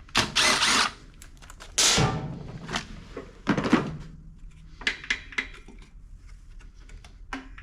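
Clunks and scrapes of parts being handled on a push mower's engine while its top cover is taken off: three short, loud, noisy strokes in the first four seconds, then lighter clicks.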